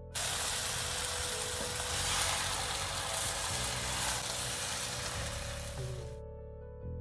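Masala chips and chicken sizzling in a hot wok, a loud steady hiss that cuts in just after the start and stops abruptly about six seconds in. Soft background music plays underneath.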